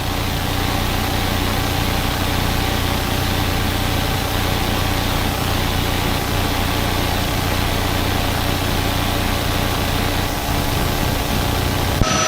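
Loud, steady drone of a pursuing police vehicle heard from inside, with engine hum and rushing noise at sustained high speed. It cuts off suddenly near the end, with a brief tone.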